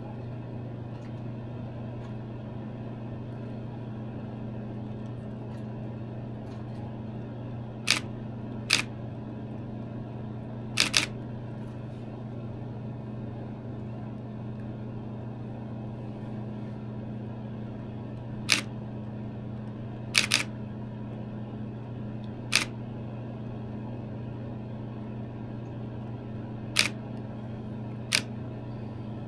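DSLR camera shutter (Nikon D7000) firing about ten times, in single frames and quick pairs, over a steady low hum.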